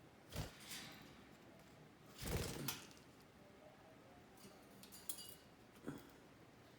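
A few light clinks and knocks of a budgie's cage and dish as the bird moves about and feeds. The strongest is a short cluster with a dull thump about two and a half seconds in, and smaller clicks come near the end.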